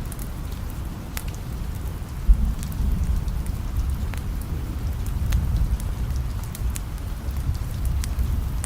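Steady rain with a low rumble underneath and scattered sharp ticks, and one brief low thump about two seconds in.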